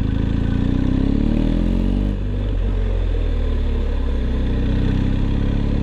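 BMW R1250 GS Adventure's boxer-twin engine pulling as the bike accelerates uphill, its pitch rising. There is a short dip in pitch and level about two seconds in at a gear change, then it climbs again.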